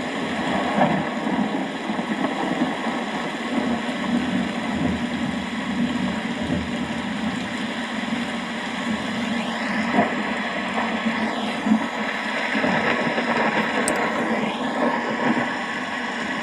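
Rain falling steadily in an even hiss, with a low rumble of thunder underneath.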